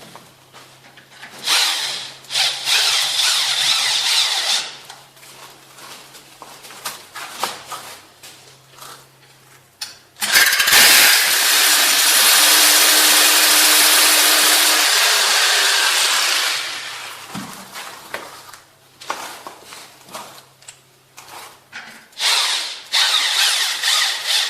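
An electric power tool runs loudly and steadily for about six seconds, from near the middle of the stretch, with a low steady tone under its noise. Shorter scratchy, rasping bursts come before it and again near the end, like rubbing or sawing on board.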